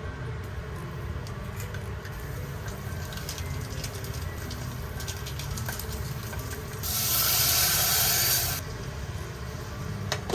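A short, loud burst of hissing, under two seconds, that starts and stops sharply about two-thirds of the way through, over a steady low background.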